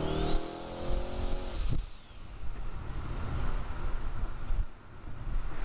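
Twin-turbo LS V8 under hard acceleration, heard from inside the cabin: the revs climb with a rising turbo whistle. About two seconds in, a sharp click comes as the revs drop and the whistle falls away. The engine then runs on steadily at lower revs.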